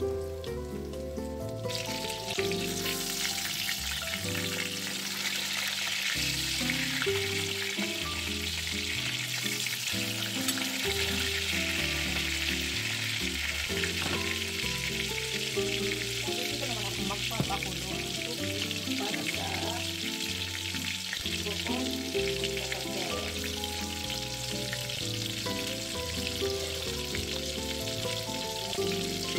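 Breaded pork cutlets sizzling as they shallow-fry in hot oil in a pan. The sizzle comes in about two seconds in and then runs steadily under background music.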